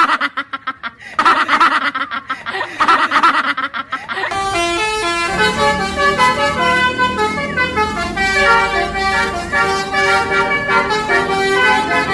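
Basuri telolet bus horn, a tuned multi-tone horn, sounding in quick pulses and then held for about four seconds. About four seconds in, music with a bright stepping melody starts and carries on.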